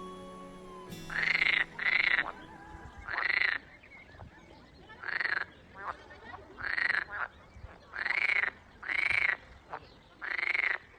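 Frogs croaking: about eight separate calls, each about half a second long, coming roughly a second apart.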